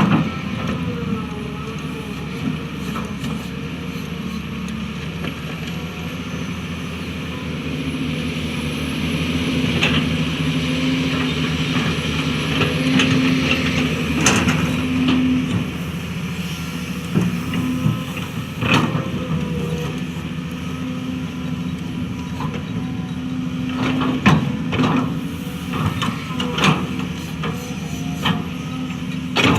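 Hydraulic excavator's diesel engine running steadily under load while it digs and levels soil, with scattered sharp metallic clanks and knocks, several close together near the end.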